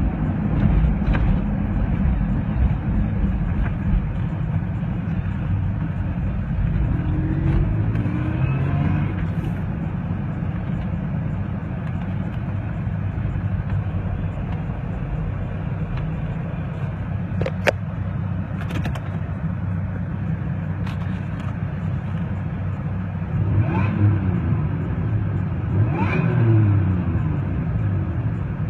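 Supercharged V8 truck engine running, with its pitch rising and falling twice as the revs change. A single sharp click about two-thirds of the way through.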